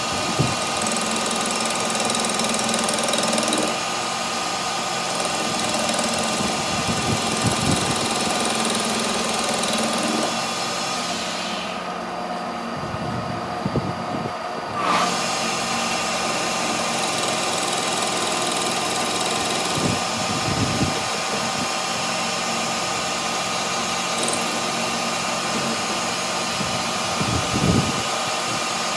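Workshop machinery running steadily with a hum and several constant pitched tones, with a few short knocks now and then. The high end drops out for a few seconds near the middle.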